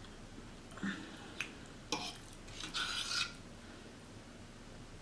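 Faint eating sounds: a few light clicks of cutlery against a plate in the first two seconds, then a short rasping scrape near the middle.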